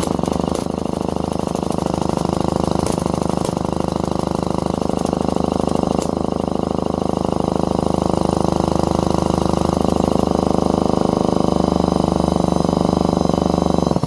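Electric drill spinning an old two-stroke chainsaw engine over through its starter nut, a loud steady whine with a few sharp clicks, the pitch creeping up a little in the second half before it stops suddenly. The saw is being cranked because its pull starter's springs are bad, and it does not run on its own.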